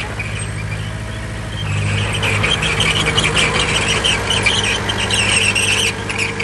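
Heavy construction machine's diesel engine running steadily. About two seconds in, a rough, high-pitched squealing and scraping joins it and continues.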